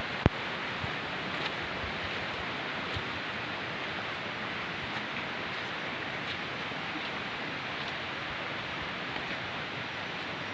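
Steady rushing roar of a tall jungle waterfall, with one sharp click right at the start.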